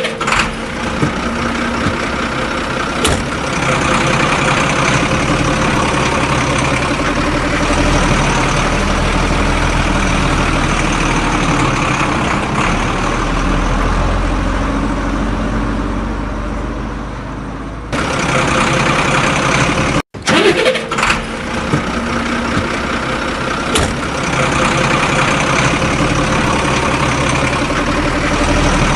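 Heavy machine engine running steadily, with the sound cut off abruptly about eighteen seconds in and again briefly near twenty seconds before the engine sound carries on.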